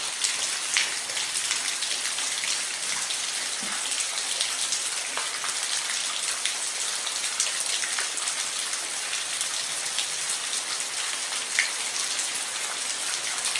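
Steady rain falling on a roof: an even hiss with scattered individual drops ticking sharply.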